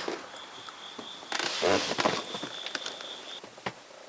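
A faint, steady high-pitched tone that breaks off briefly in the middle, with a brief rustle in the gap and a few light ticks.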